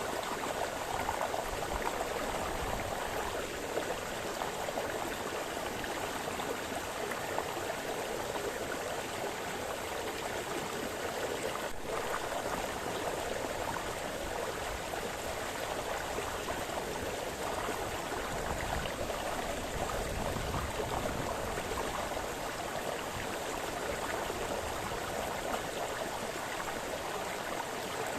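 Small forest brook splashing and burbling over stones, a steady, even water noise.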